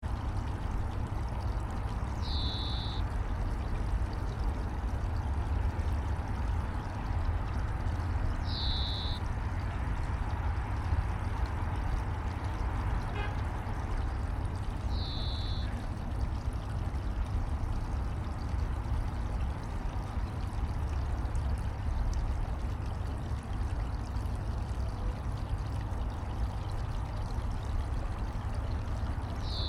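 Steady rushing of stream water with a low rumble underneath. A common kingfisher's short, high, thin call, which slides down briefly and then holds, comes three times about six seconds apart and once more at the very end.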